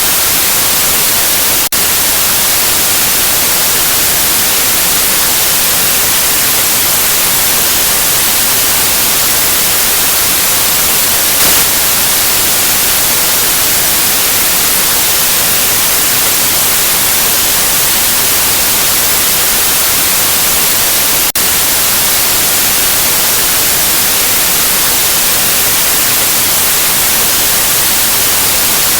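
Steady white noise: an even, hissy static across all pitches, brightest in the treble. It drops out for an instant twice, once near the start and once about two-thirds of the way through.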